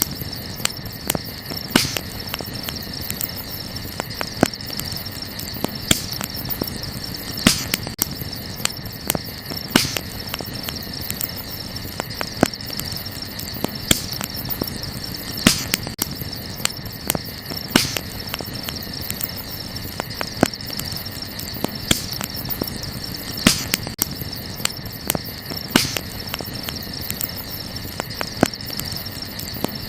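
Wood campfire crackling, with irregular sharp pops and snaps, a few louder ones every second or two, over a steady high chorus of night insects such as crickets chirping.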